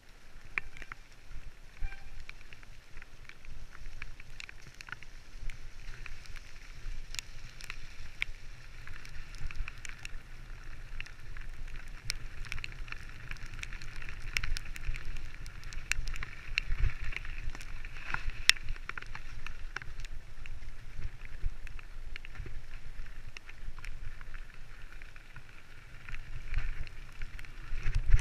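Mountain bike riding down a rough trail: tyres rolling over the ground with frequent sharp clicks and rattles from the bike, and a low rumble of wind on the microphone.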